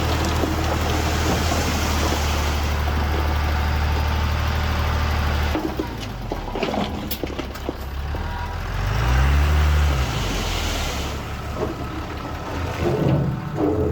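Diesel engine of heavy earthmoving machinery running. It drones steadily, drops back about five and a half seconds in, then revs up and back down briefly around the nine-second mark.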